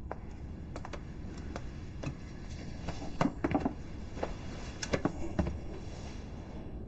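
Scattered light taps and clicks over low room noise, with a small cluster of louder ones in the middle.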